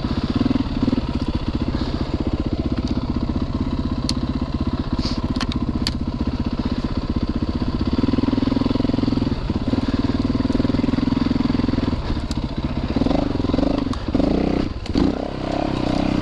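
Four-stroke single-cylinder dirt bike engine running on a trail ride, the throttle opening and closing as it goes, with a few sharp ticks a few seconds in. Near the end the revs rise and fall unevenly.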